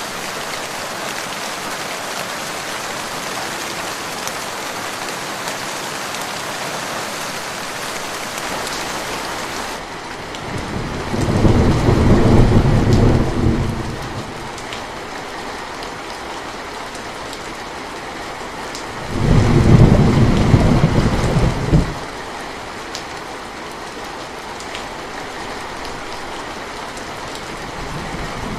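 Steady rain hissing, with two rolls of thunder, each lasting about three seconds: one about a third of the way in, the second just past the middle. The hiss turns duller just before the first roll.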